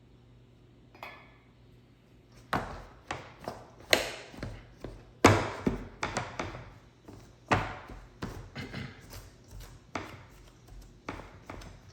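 Irregular knocks and chopping strokes of a utensil against a mixing bowl as pie dough is worked with water added, some strokes much louder than others.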